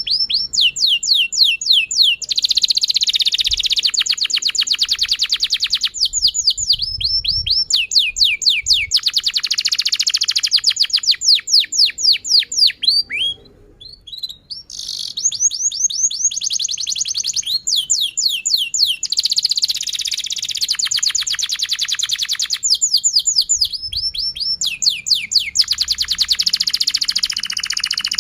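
Domestic canary singing a long, continuous song: phrases of fast repeated down-slurred notes alternating with dense rapid trills, broken by a short pause about halfway through.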